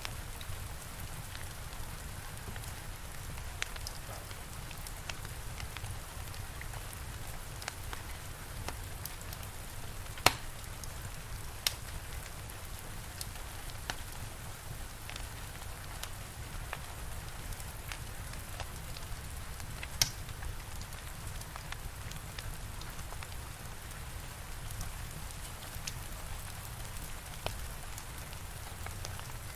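Steady rain falling, with a wood fire crackling: scattered sharp pops, the loudest about ten seconds in and another about twenty seconds in.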